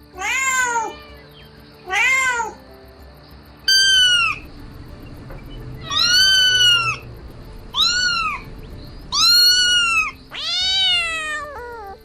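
Kitten meowing seven times in a row, each high meow rising then falling in pitch, over soft background music.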